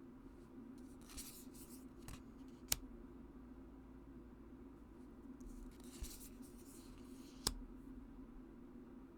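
Oracle cards being handled: two soft papery swishes of cards sliding against each other, and four sharp taps, over a steady low hum.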